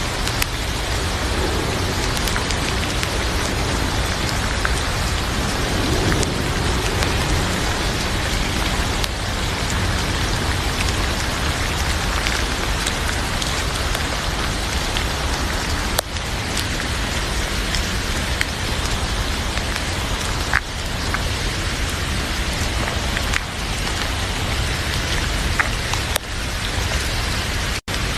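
Heavy rain falling steadily, a dense even hiss, with occasional sharp crackles from a wood fire in a fireplace.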